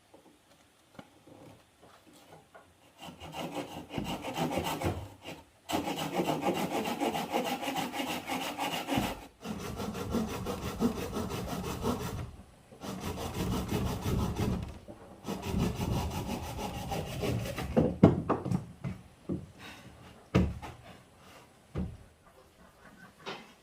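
Wood being sawn by hand in several spells of rapid back-and-forth strokes, each a few seconds long. A few separate knocks follow near the end.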